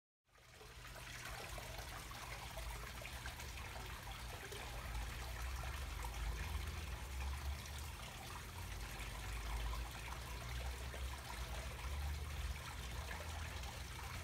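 Steady trickle of running water, starting abruptly just after the start, with a low rumble underneath.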